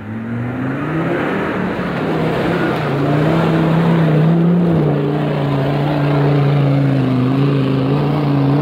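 An off-road 4x4's engine revving up over the first second or so, then held at high revs under heavy load, its pitch wavering slightly as it works.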